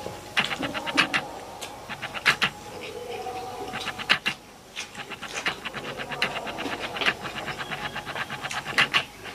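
Close-up chewing and lip-smacking of a person eating biryani and salad by hand: clusters of quick, wet mouth clicks, several a second, coming in bursts.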